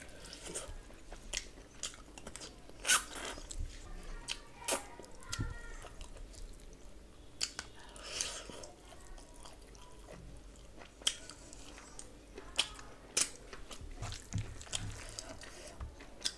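A person chewing and biting mouthfuls of chicken biryani and meat eaten by hand, close-miked, with wet mouth smacks and sharp clicks at irregular intervals, the loudest about three seconds in.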